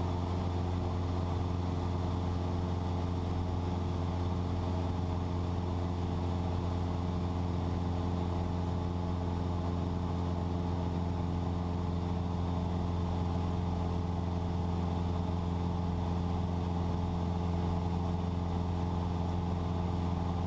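Cessna 172 light aircraft's piston engine and propeller droning steadily in cruise flight, an even, unchanging tone.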